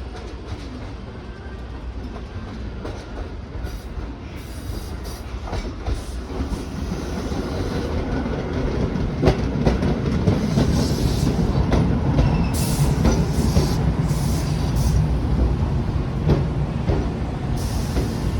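Electric commuter train running on rails, growing louder, with clicking wheels over rail joints and brief high-pitched wheel squeals in the second half.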